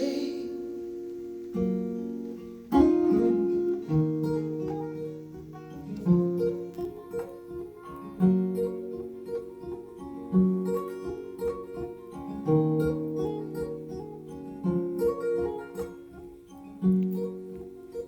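Acoustic guitar playing an instrumental passage alone, picked chords ringing on with a new chord about every two seconds.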